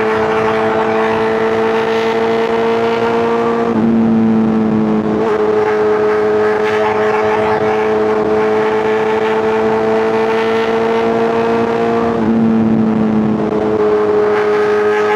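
Superbike inline-four engine and exhaust under steady acceleration, its pitch slowly climbing and dropping sharply at two upshifts, about four seconds in and again near twelve seconds.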